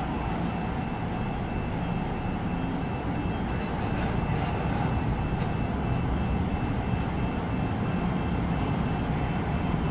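Kaohsiung light rail tram pulling into a station, a steady rumble and hiss of the tram running that grows a little louder about halfway through. A high electronic beep repeats rapidly over it and stops about seven seconds in.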